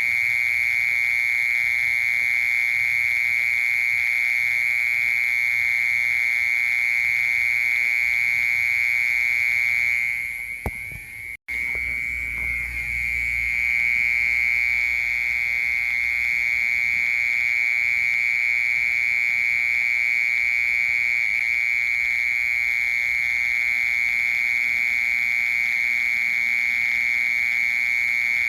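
Mole cricket singing a steady, unbroken, high-pitched trill. It drops away briefly and cuts out for an instant about eleven seconds in, then carries on as before.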